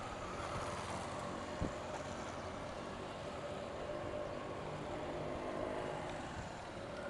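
Motorcycle engines running, their pitch drifting gently up and down, with a single thump about one and a half seconds in.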